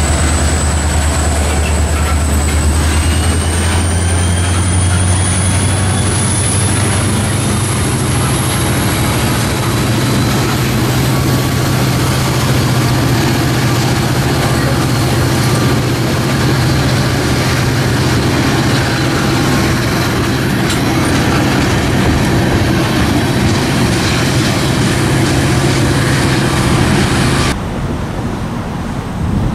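Freight train of open-top hopper cars rolling through a grade crossing: a steady rumble and rattle of steel wheels on rail, with a thin high whine that slowly rises in pitch over the first several seconds. The sound drops suddenly near the end.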